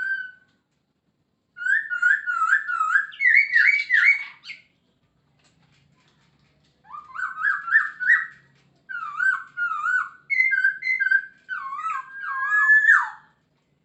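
Chinese hwamei (Poksay Hongkong) singing: loud, clear whistled phrases of rapidly repeated slurred notes that swoop up and down. The song comes in several bursts, with a pause of about two seconds near the middle.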